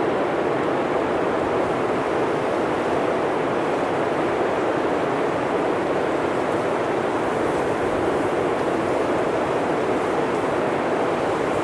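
Blizzard wind blowing steadily through a forest: an even, unbroken rushing noise with no gusts rising or falling.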